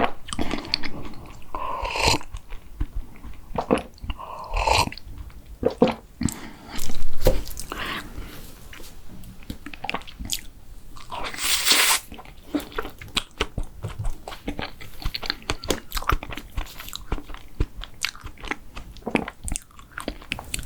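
Close-miked eating sounds of a person biting and chewing mint-chocolate desserts, with crunching and many short wet clicks. A louder noisy burst comes about seven seconds in, and a longer hissy stretch follows around eleven to twelve seconds.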